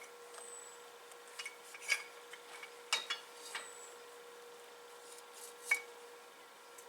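Scattered light clicks and clinks of small hard objects being handled, a few a second at most, with a sharper clink about two, three and near six seconds in, over a faint steady hum.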